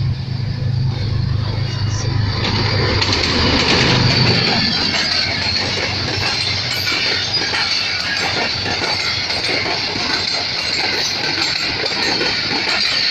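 Passenger train coaches rolling past at speed: a rapid, continuous clatter of wheels over the rails with a steady high hiss. A low hum fades away in the first few seconds.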